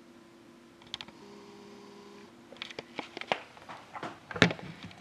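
Handling noise from a sealed trading card box being picked up and turned over: scattered clicks and rustles that grow busier partway through, with one sharper knock near the end.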